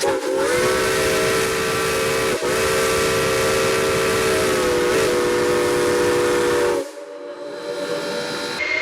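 A steam locomotive's chime whistle blowing a long blast, several notes sounding together as a chord over a hiss of steam. It breaks for an instant about two and a half seconds in and cuts off near seven seconds. Another whistle chord begins just before the end.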